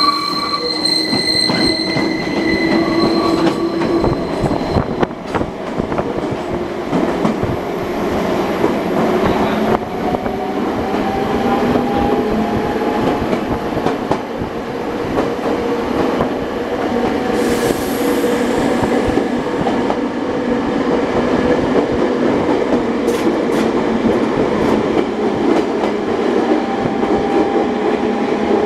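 A Nankai Koya Line electric train running on the mountain line, heard from inside the car. Its wheels squeal against the rails on a curve for the first few seconds. Then comes the steady rumble of wheels and running gear as the train runs on into a tunnel.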